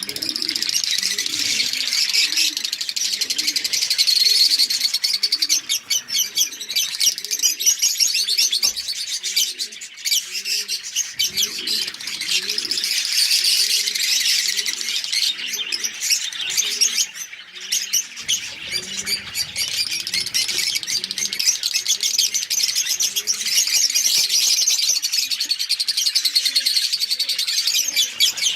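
A flock of lovebirds chattering, a dense, continuous high-pitched twittering and chirping. Low, short calls repeat about once a second underneath.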